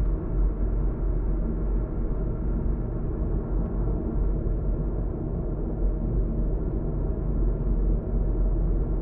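A car driving at speed on an expressway: a steady low rumble of tyres, road and engine, without change or breaks.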